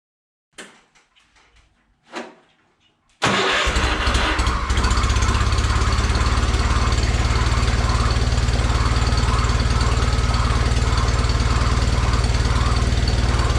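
John Deere 317 garden tractor engine starting: a few faint clicks and a short rush of noise, then the engine catches about three seconds in and runs steadily.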